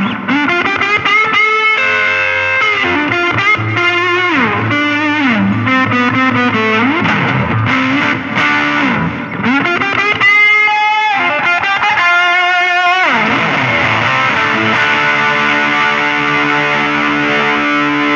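Stratocaster electric guitar through an MXR Classic 108 Fuzz Mini pedal with its buffer on, into a Fender Champion 20 amp: fuzzed lead playing with repeated string bends and quick runs. It ends on a chord held ringing for the last few seconds.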